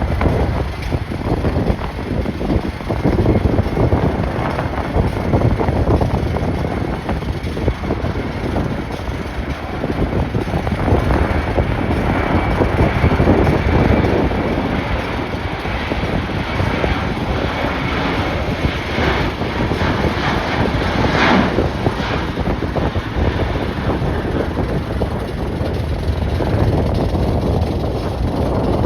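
Strong gusty wind buffeting the microphone, over the steady rumble of jet airliner engines.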